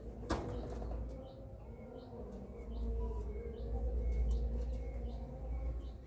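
Domestic pigeons fluttering their wings, with a sharp click near the start and a low rumble through the middle. Faint short chirps repeat about twice a second.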